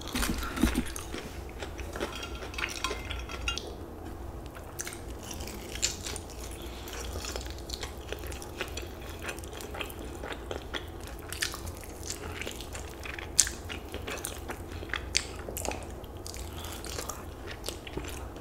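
Close-miked eating of Popeyes ghost pepper fried chicken wings: chewing and biting, with many small wet mouth clicks and soft crunches scattered throughout.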